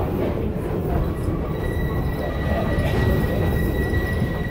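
Passenger train rolling along the track, heard from on board as a steady low rumble. About a second and a half in, a steady high-pitched wheel squeal joins it.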